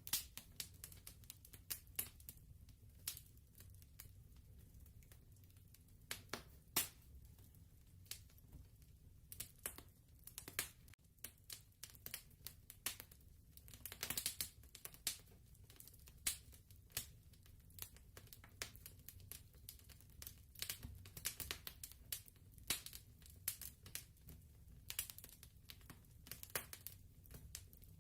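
Wood fire crackling quietly: irregular sharp pops and snaps, several a second, over a low steady rumble.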